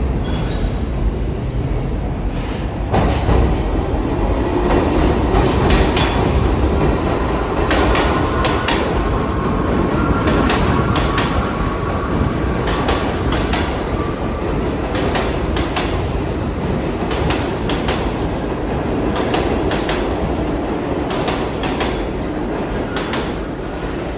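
New York City subway train running through an underground station, a steady rumble broken by repeated clusters of sharp clacks as the wheels cross rail joints, with a faint whine partway through.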